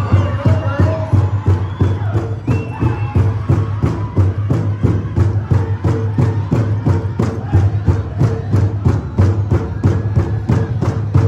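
Powwow drum group: a big drum struck in a fast, even beat, with singers' high, wavering voices over the first few seconds.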